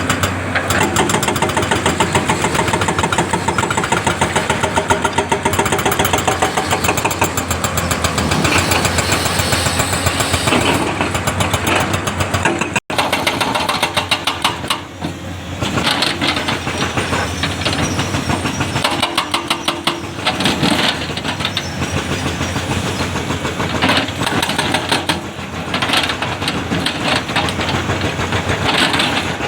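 Excavator's diesel engine running under working load, with a fast, regular knocking pulse. The sound drops out for an instant about 13 seconds in.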